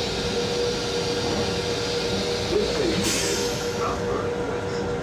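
Metro-North M7 electric railcar running, heard inside its restroom: a steady rumble and hiss with a constant hum-like tone over it. The high hiss drops away about three seconds in.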